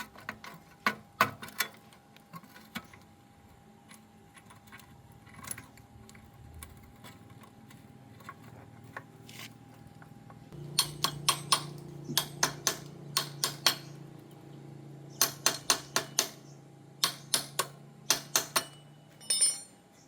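Metal tools and small engine parts clinking and clicking as they are handled, in quick clusters of sharp knocks. A low steady hum comes in about halfway through.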